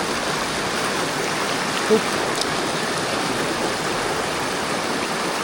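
Mountain stream rushing steadily over rocks. A brief short vocal sound from a person comes about two seconds in.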